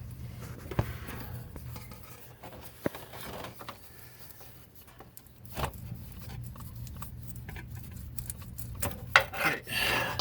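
Sharp clicks, knocks and rubbing of hands and plastic working a fuel hose's quick-connect fitting loose from the fuel filter, with a cluster of clicks near the end, over a steady low hum.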